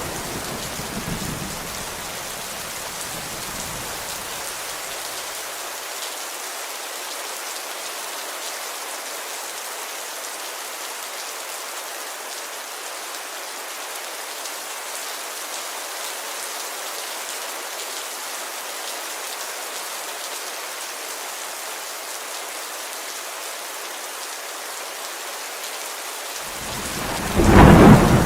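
Steady heavy rain pattering on a window pane, a continuous even hiss. A low thunder rumble fades out over the first few seconds, and a loud thunderclap breaks in near the end.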